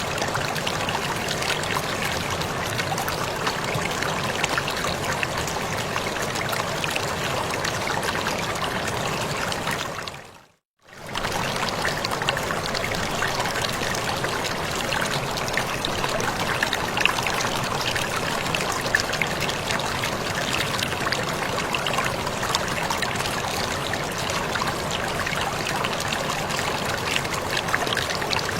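Waterfall splashing: a steady rush of falling water with small splashes and drips. About ten seconds in it fades out to silence for under a second, then comes back at the same level.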